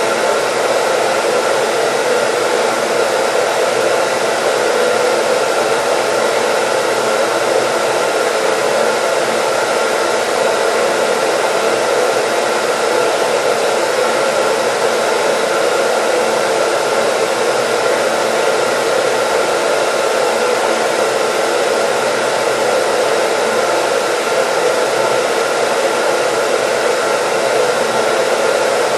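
Hair dryer running steadily, an even rushing blow of air with a faint steady whine from its motor.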